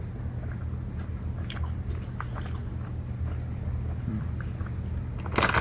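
A person chewing tough gummy candies (Haribo Goldbears Sour), with a few faint crinkles from the plastic candy bag, over a steady low hum.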